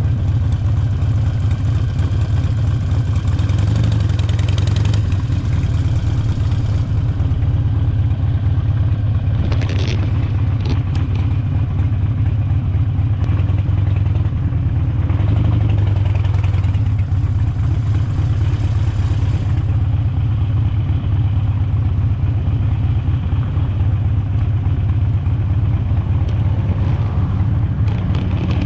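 Motorcycle engine running steadily under way: a continuous low drone with a few brief swells.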